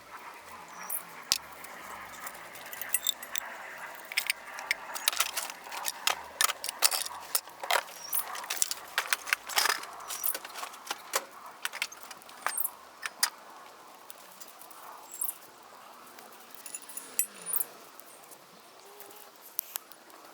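Small wood campfire crackling: sharp, irregular snaps and pops, thick for the first dozen seconds and sparser after that.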